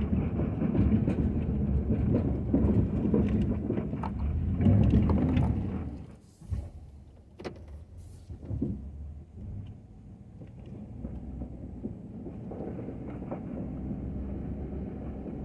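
Ford F-250 pickup truck running, with a loud low rumble for about six seconds that then drops off to a quieter, steady running sound, with a few sharp knocks as it eases off.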